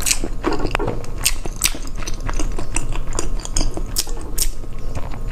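Close-miked chewing of a soft-centred century egg: rapid, irregular wet clicks and smacks of the mouth.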